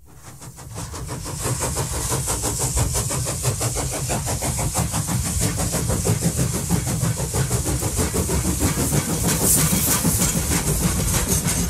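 A moving train: a steady low running noise with hiss and rapid, evenly repeating beats. It fades in from silence over the first second or two.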